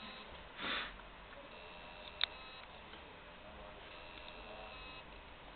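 Western Digital external hard drive making a strange noise: faint, high-pitched beeping that comes and goes, with one sharp click a little past two seconds in. The drive is not recognised by the computer, a sign of a drive fault. A short breathy sniff sounds just under a second in.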